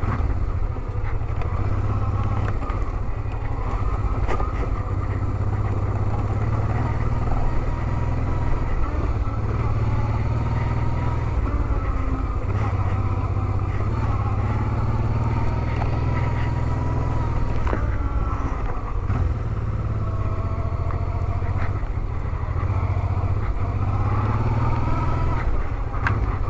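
Honda Transalp 650's V-twin engine running steadily as the motorcycle is ridden along.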